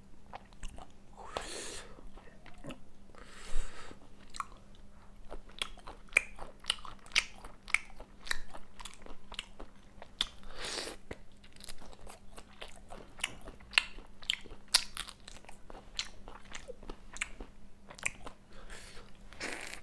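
Close-miked mukbang eating of peeled prawns in a creamy malai curry: steady chewing with many small wet mouth clicks and smacks, and a few short hissy sounds in between.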